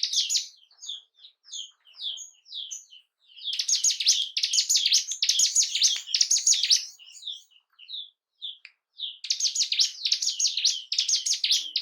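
Ciblek gunung (a mountain prinia) singing: short high chirps spaced a few to the second, breaking into a fast, dense chattering song from about three and a half seconds to nearly seven, and again from about nine seconds on.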